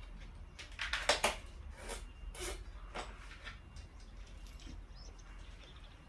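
Metal tools and parts clinking and knocking against each other, several separate sharp clanks with the loudest cluster about a second in, as a trail bike's rear wheel is worked on.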